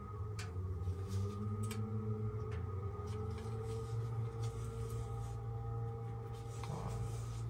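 Steady low machine hum, with faint scratching and a few light clicks of pipe fittings being handled.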